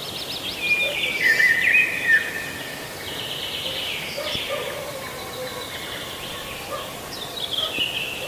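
Birds calling: rapid chattering trills that step down in pitch, loudest in the first two seconds and again near the end, over a steady outdoor hiss.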